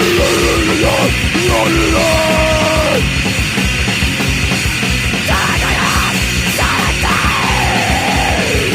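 Crust punk demo recording: fast, heavily distorted guitars over pounding drums, with a few held notes early on and a note sliding down near the end.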